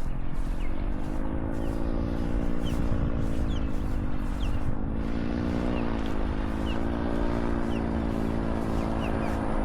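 Powered paraglider trike's motor flying past overhead, its pitch rising and dipping a few times, then holding steady.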